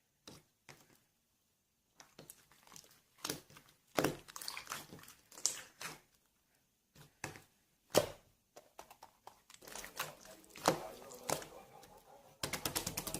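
Jelly slime being squeezed and stretched by hand, making sticky crackling and popping clicks in irregular bursts, with a quick run of tiny pops near the end.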